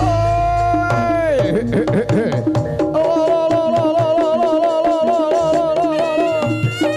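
Live jaranan music with drums and gongs. A high melodic lead holds a long note that falls away about a second and a half in, then a second, wavering held note carries on from about three seconds.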